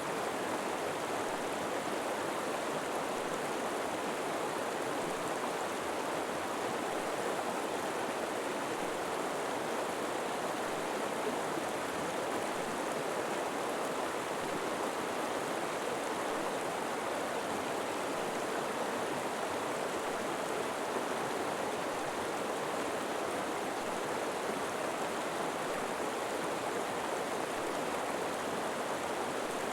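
River water flowing and rushing steadily, an even, unbroken sound of moving water with no changes.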